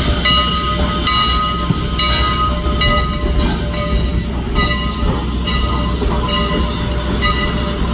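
Steam locomotive's bell ringing steadily, about one strike a second, over the low rumble of the moving train.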